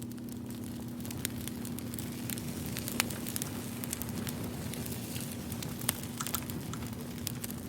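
Crackling fire: an even hiss with irregular sharp pops and snaps, over a steady low hum.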